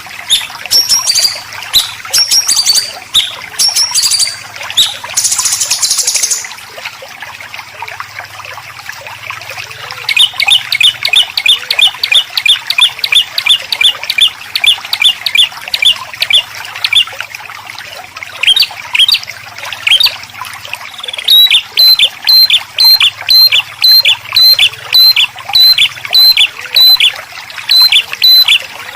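Songbird singing besetan: varied whistled notes at first, then from about ten seconds in a fast run of sharp repeated notes, about eight a second, and near the end a slower run of clipped notes, about two a second. A steady trickle of water runs underneath.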